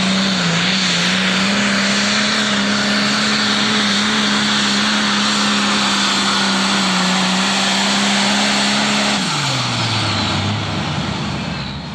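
Turbocharged diesel engine of a Pro Stock pulling tractor at full throttle down the track, holding one steady high pitch with heavy exhaust and turbo noise. About nine seconds in the revs fall away as the throttle comes off at the end of the pull.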